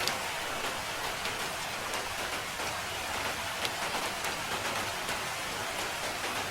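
Steady rain falling, an even hiss with the sharp ticks of single drops landing now and then.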